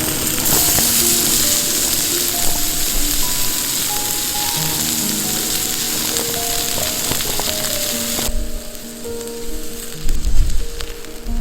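Food sizzling in a hot pan over background music; the sizzle cuts off suddenly about eight seconds in, and a few low thumps follow near the end.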